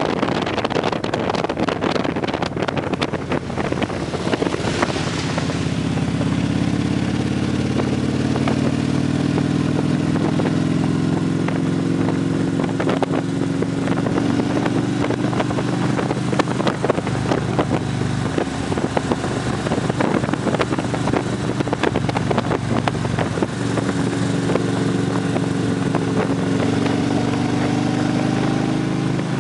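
Victory police motorcycles' V-twin engines running at riding speed. Their pitch climbs gently a few seconds in, then holds, wavering with small throttle changes, under steady wind rush that is strongest at the start.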